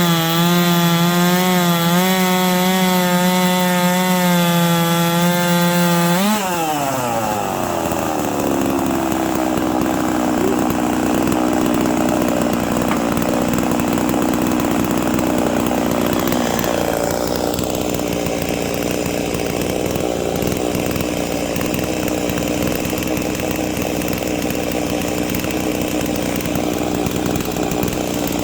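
Big-bore 98.5 cc two-stroke chainsaw (Holzfforma G660, a Stihl MS660 clone) running at full throttle under load in a chainsaw mill cut through a log. About six seconds in its pitch sweeps sharply up, and a slightly quieter, steady running sound follows.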